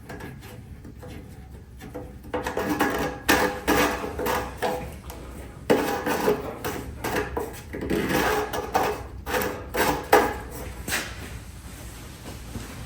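Irregular clunks, knocks and scraping of parts being handled. It starts quietly and turns into busy clatter about two seconds in.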